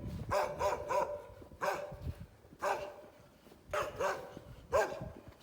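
A dog barking repeatedly, short sharp barks roughly once a second, some coming in quick pairs.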